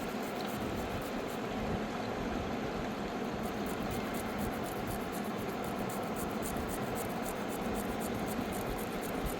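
Steady rushing of a fast mountain river, an even roar of water with no break.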